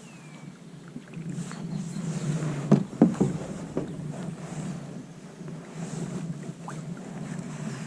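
Kayak paddle strokes, the blades dipping in and dripping water about once a second, with two sharp knocks close together about three seconds in.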